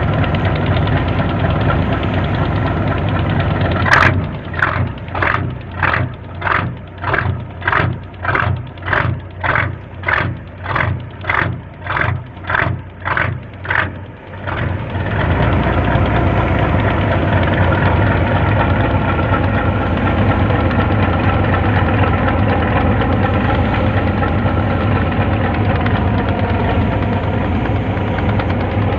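A boat's engine running steadily. From about four seconds in, it pulses rhythmically at about two beats a second for roughly ten seconds, then settles back to a steady run.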